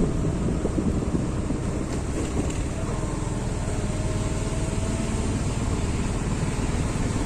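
Steady wind rushing over the microphone, mixed with the road and engine noise of a motorcycle on the move.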